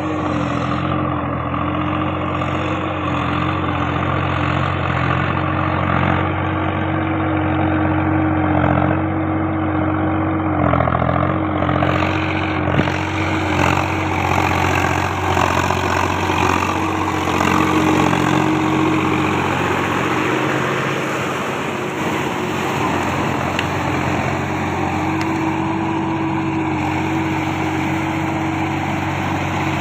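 A motor running steadily, a constant hum with a whine that holds without a break.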